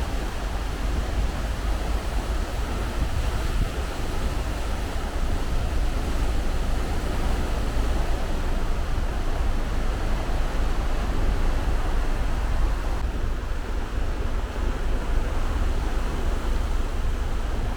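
Steady rush of wind and sea from a cruise ship under way, with wind buffeting the microphone in a heavy low rumble.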